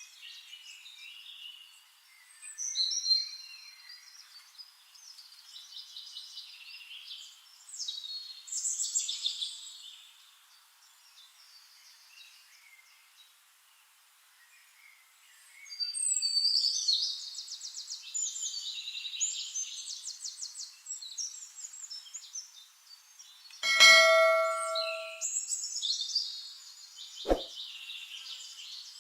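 Several songbirds singing and chirping in overlapping high phrases, with quieter stretches between. About three-quarters of the way through, a single loud bell-like metallic ding rings out for about a second and a half, followed a few seconds later by one short click.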